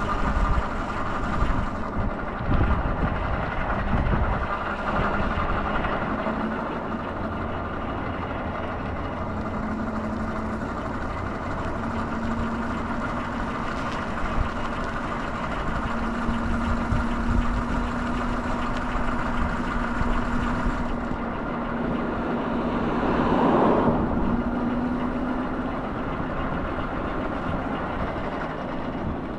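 Steady motor-vehicle road noise, with a low engine hum that slowly creeps up in pitch and a louder swell about 23 seconds in.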